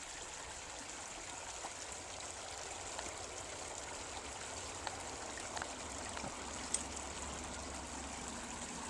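Shallow stream water running steadily, with a few faint small clicks.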